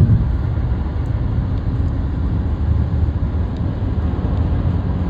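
Steady low rumble of a car driving on the highway, heard from inside the cabin: tyre and engine noise.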